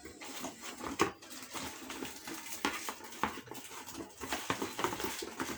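A studio microphone's box being opened by hand: irregular clicks, taps and rustling of the packaging.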